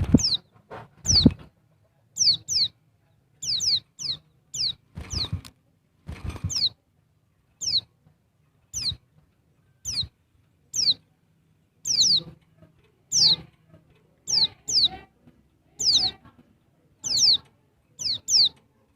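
Female pleci dakbal (white-eye) calling: short, high, thin notes that slide downward, given singly or in quick pairs about once a second.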